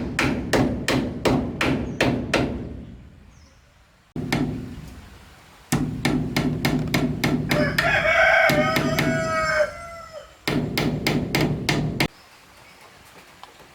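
Rapid rhythmic knocking, about four strokes a second over a low hum, in runs that stop and start and end abruptly near the end. A rooster crows once in the middle.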